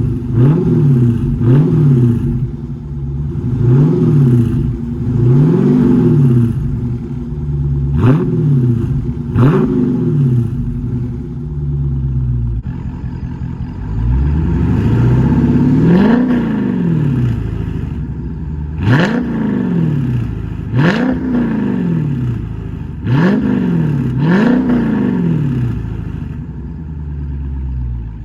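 Dodge car's exhaust with the mid muffler deleted, revved again and again in short blips, each climbing and dropping back to idle, with sharp cracks at the top of several revs. The tone of the exhaust changes about halfway through.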